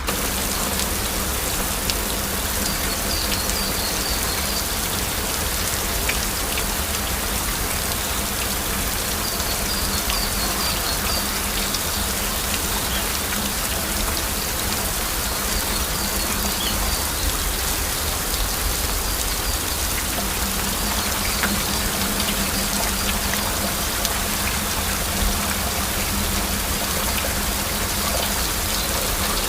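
Heavy rain falling steadily, a dense even patter with no pauses, and faint short high chirps recurring in the background.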